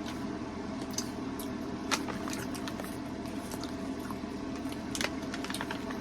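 Someone chewing a sticky, chewy ginger candy: wet mouth sounds with a few sharp clicks, over a steady room hum.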